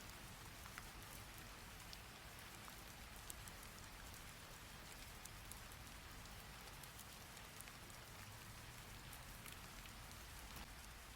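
Faint, steady rain falling, an even hiss with scattered single drop ticks: a recorded rain sound effect.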